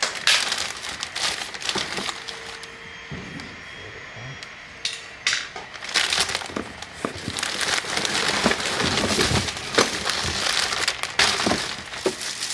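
Plastic packaging crinkling and rustling, with sharp clicks and knocks, as pressure washer parts are unwrapped and handled; busiest in the second half.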